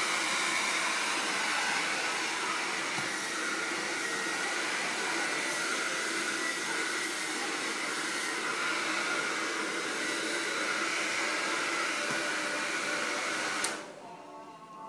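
Hair dryer blowing steadily, then switched off with a click near the end.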